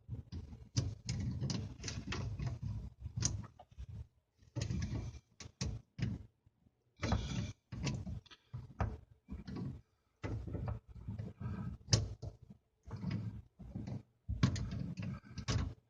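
Hands working plumbing fittings under a kitchen sink, connecting a supply hose to a SharkBite push-fit valve: irregular clicks, knocks and rattles of the fittings being handled.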